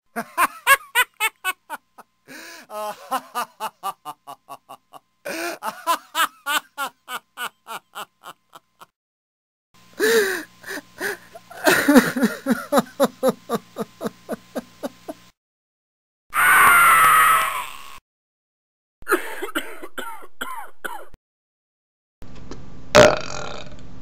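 A string of separate man's-voice sound effects: a man laughing in repeated bursts, then sobbing and crying, then a loud sustained scream, then a few coughs, and near the end a belch.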